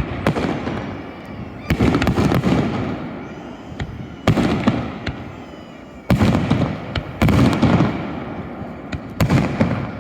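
Aerial fireworks shells bursting: about six loud booms a second or two apart, each followed by a rolling, echoing rumble that dies away.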